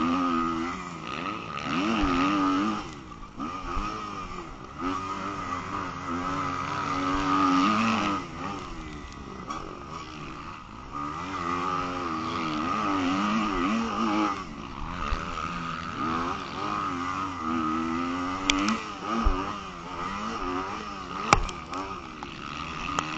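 Motocross dirt bike engine racing, its pitch rising and falling again and again as the throttle opens and closes, with a few sharp knocks near the end.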